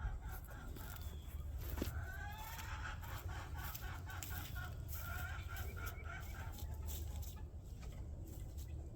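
A flock of chickens clucking, with a run of quick, repeated calls through the middle and scattered sharp clicks.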